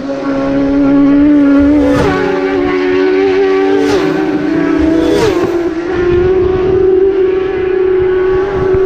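Racing superbikes at high revs flying past at full throttle, a sustained high engine note that jumps in pitch a few times, with passes swelling up about two, four and five seconds in.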